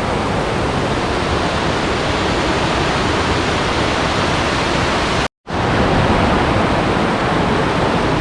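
Waterfall, a steady rush of falling water. It cuts out completely for a moment about five seconds in, then carries on.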